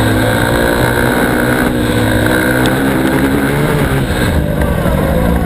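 Dirt bike engine running hard under race load, its pitch climbing and dropping in steps as the throttle and gears change.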